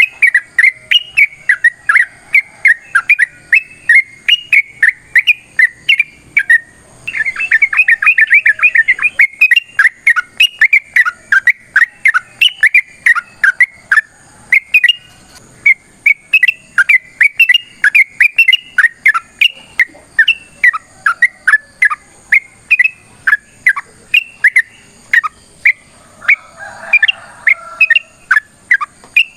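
Yellow-vented bulbul (trucuk) singing a long, fast run of sharp chattering notes, the rapid continuous 'ropel' song, with a denser flurry of notes about seven seconds in.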